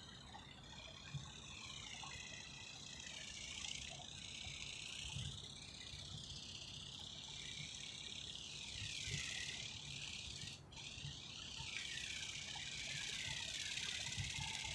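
Small electric motor and flapping-wing gearing of a remote-controlled GoGo toy bird whining faintly in flight, its pitch wavering up and down; it cuts out briefly about ten and a half seconds in. Low wind rumble on the microphone underneath.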